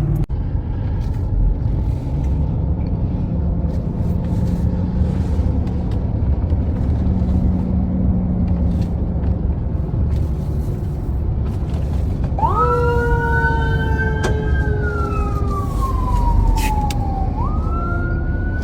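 Steady rumble of a car driving. About twelve seconds in, an emergency vehicle's siren starts, rising sharply, then falling slowly, and rising again near the end.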